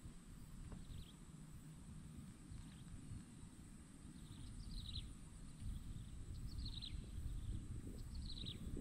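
A bird repeating a short, high call that sweeps quickly downward, about every one and a half to two seconds, louder from about halfway in. Underneath are a steady high-pitched whine and a low rumble.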